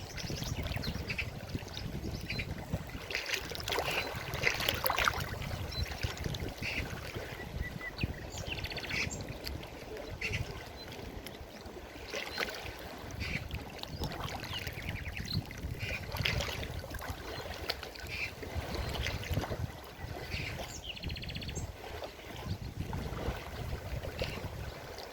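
Forest river rushing and splashing over its bed: a steady low rumble of water with irregular brighter splashes throughout.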